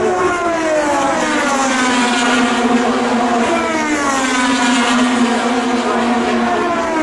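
Race car engine running at high revs, its pitch sweeping down, climbing again, then sweeping down a second time as the car slows and accelerates.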